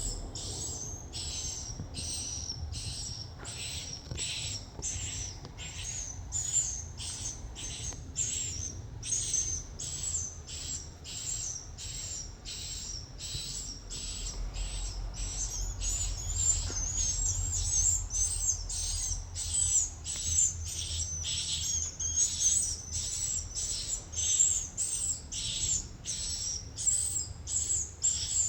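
Swiftlet chicks giving high, rapid begging chirps, about two a second, as a parent feeds them; the calling grows busier in the second half. A steady low hum runs underneath.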